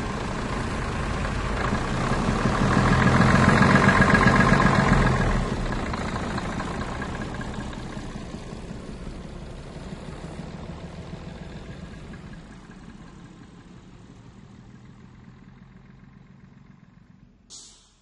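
Mercedes-Benz bus engine running, growing louder as the bus pulls away, loudest a few seconds in, then fading steadily as it drives off into the distance. A brief high hiss near the end.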